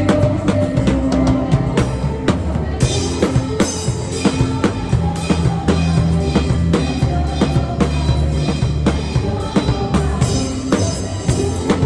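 Drum kit played in time with full worship-band music: steady kick and snare hits over sustained bass and keys. About three seconds in, the cymbals open up into a bright wash.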